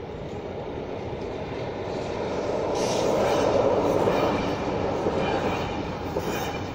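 CFL double-deck electric passenger train passing over a level crossing. The rumble of its wheels on the rails swells to a peak about three to four seconds in, with a brief higher rattle as it arrives and again as the last carriage goes by, then fades.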